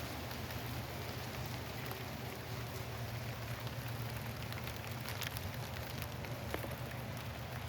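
Steady rain falling in a thunderstorm, with scattered single drops striking close by.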